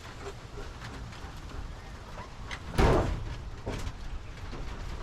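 A wind-blown pen door slams shut once, about three seconds in, over a steady low rumble of wind buffeting the microphone.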